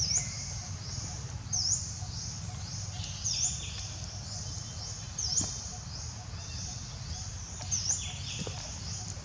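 Outdoor ambience: sharp, high bird chirps repeat every second or two over a steady high chirring and a low rumble of background noise.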